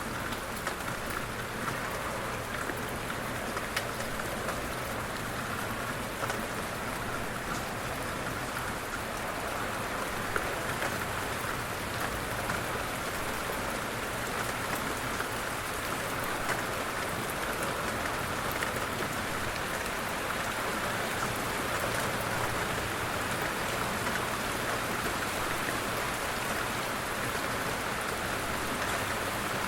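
Light rain falling steadily, with scattered individual drops ticking on a surface.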